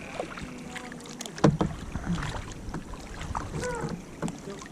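Kayak paddling on calm water: paddle blades dipping and splashing, with drips and a sharp knock about one and a half seconds in.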